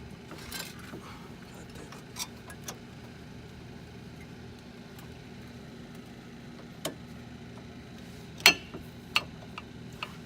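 Scattered metallic clicks and clinks of brake pads and caliper hardware being handled and fitted, about six in all, with one loud clack about eight and a half seconds in.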